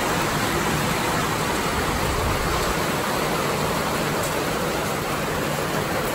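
Heavy rain pouring down: a steady, even hiss of rain falling on gravel, grass and standing water.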